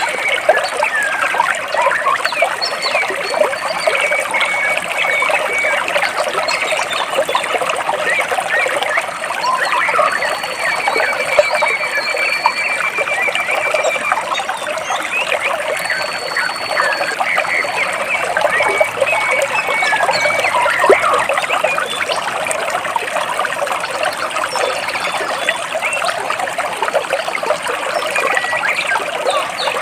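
Stream water splashing and trickling between rocks, a steady dense babble. Now and then thin high trills from birds sound over it.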